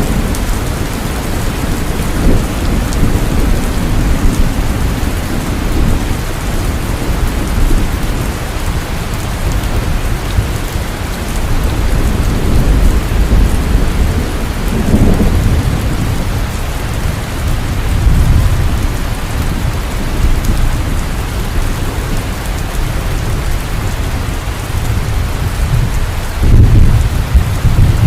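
Heavy rain pouring steadily, with deep rolls of thunder rumbling underneath. The thunder swells in waves, loudest near the end.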